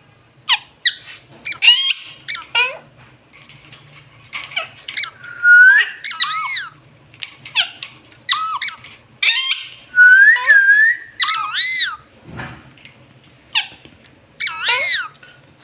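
Caged parrots calling: a quick series of short squeaks and whistles, several of them sliding up and down in pitch.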